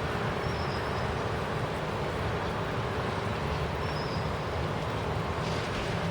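Steady rushing storm noise with a low rumble, even in level throughout, with no thunderclap.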